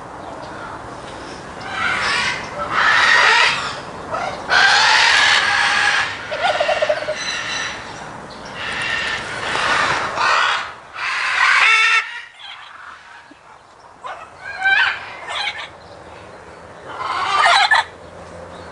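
Parrots squawking: a run of loud, raspy calls, some a second or two long, with a short lull about two-thirds of the way through.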